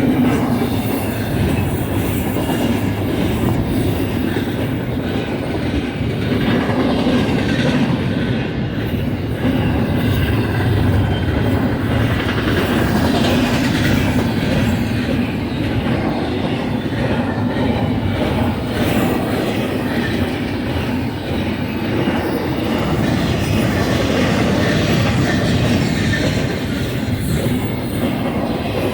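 BNSF double-stack container train rolling past with a steady rumble of steel wheels on rail, and a clickety-clack of wheels passing over rail joints.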